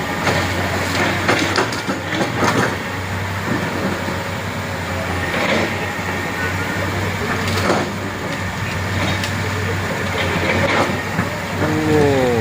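A heavy truck's engine running steadily, with repeated clanks and rattles as the vehicle jolts over a rough, broken road, and a short falling tone near the end.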